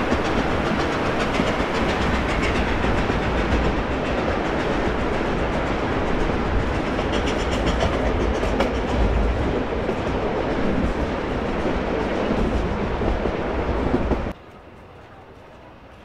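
Narrow-gauge passenger train rolling along the rails, its wheels clicking over the rail joints. The sound cuts off abruptly near the end, leaving only a faint hiss.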